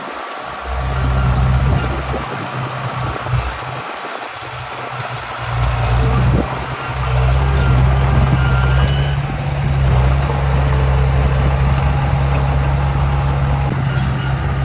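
Diesel engine of heavy earthmoving machinery running, a low hum that comes and goes at first, then grows louder about six seconds in and holds steady.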